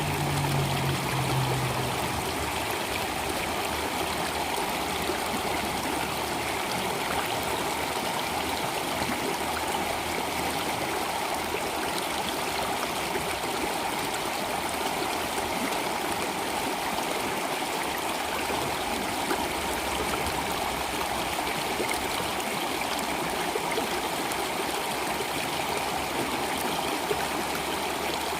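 Stream water flowing steadily, a continuous even rushing and trickling.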